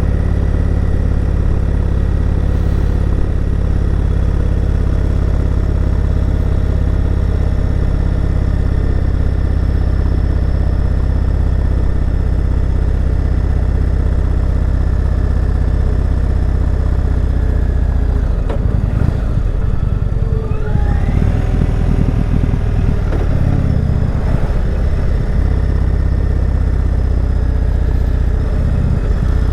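Indian Chieftain Dark Horse V-twin motorcycle engine running steadily under way. Its note changes and wavers for a few seconds past the middle, as with a shift or a change of throttle, then settles again.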